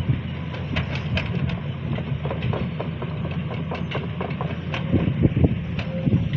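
Sany SY215C excavator's diesel engine running steadily, with frequent light knocks and clanks from the machine at work.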